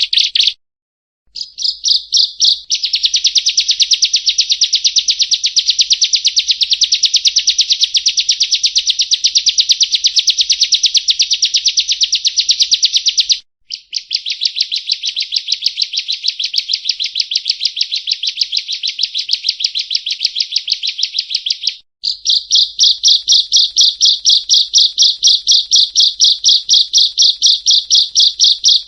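Ciblek kristal (a prinia) singing long, fast trills of rapidly repeated high notes. The song breaks off briefly near the start, about halfway through and again about two-thirds through, then carries on.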